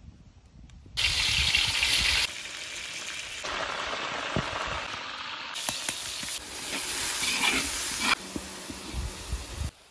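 Chicken pieces sizzling as they fry in hot vegetable oil in a large metal pan, loudest from about a second in, with a metal spatula scraping and knocking as they are turned. Near the end, chopped onion sizzles in the oil.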